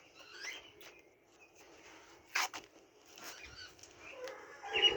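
Faint chirping and scratching from chickens and chicks, with one sharp click about two and a half seconds in and a louder call right at the end.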